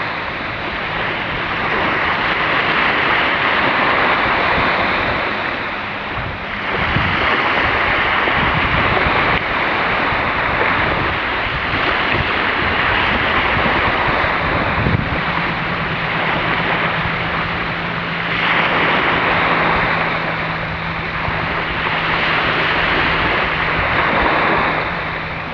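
A loud outdoor rushing noise that swells and eases every few seconds, with a steady low hum under it near the start and again through the second half.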